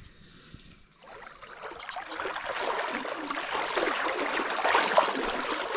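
Creek water rushing and splashing over rocks. It starts abruptly about a second in and gets louder over the next couple of seconds.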